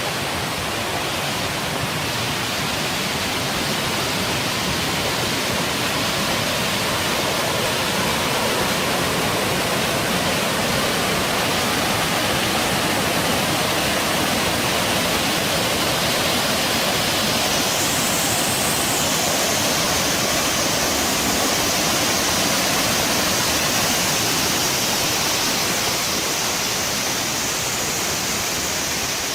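Saluopa waterfall's water rushing steadily and loudly. About two-thirds of the way through, a higher hiss comes into it and stays.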